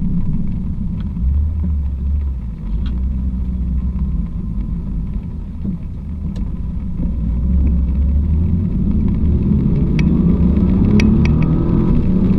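Nissan GT-R (R35) engine running with a low, steady drone that rises in pitch over the last few seconds as the car accelerates, with a few sharp clicks.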